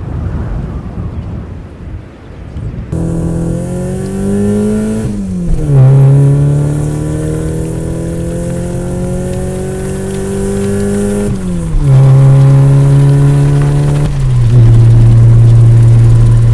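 Wind noise for about three seconds, then a car engine running under acceleration. Its pitch climbs slowly and drops sharply three times, as at gear changes, and it ends on a steady, lower note.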